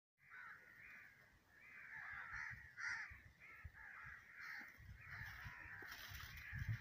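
Birds calling in the background: a faint, busy run of short overlapping calls. Under them is a low thudding rumble, strongest near the end.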